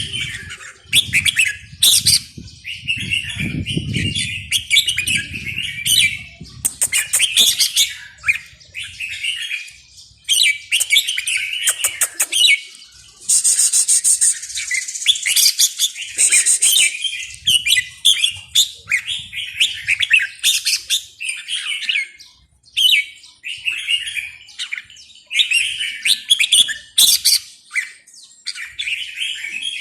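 A songbird singing in repeated short, chirpy phrases through the whole stretch, with brief pauses between bursts.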